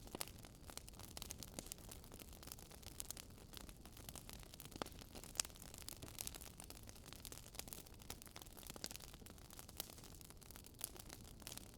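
Faint crackling of a burning wood fire: irregular small pops and snaps over a low hiss, with a couple of sharper pops about five seconds in.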